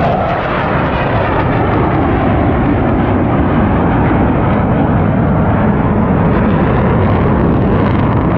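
Loud, steady jet engine noise from display aircraft flying a pass overhead.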